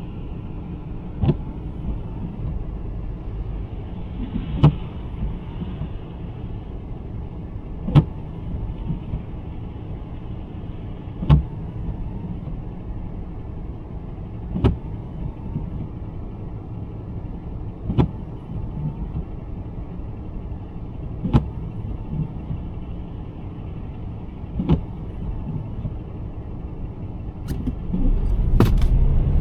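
Steady road and engine rumble inside the cabin of a 2023 Nissan Sentra driving through snow. A sharp click comes about every three seconds, in the even rhythm of windshield wipers on an intermittent setting. The rumble grows louder near the end.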